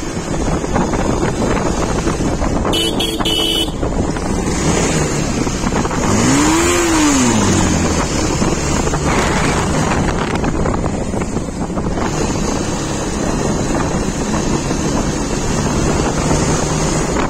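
Bajaj Pulsar 220F motorcycle engine running steadily on the move, with wind on the microphone. About six seconds in the engine revs up and settles back down. A brief high beep comes about three seconds in.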